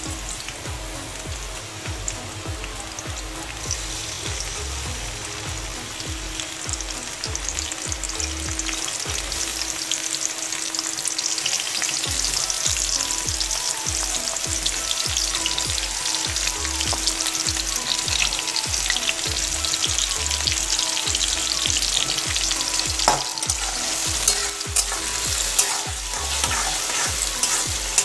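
Chopped onion and garlic sizzling in hot oil in a metal kadai, stirred now and then with a spatula. The sizzle grows louder over the first several seconds, and a few sharp scrapes of the spatula on the pan come near the end.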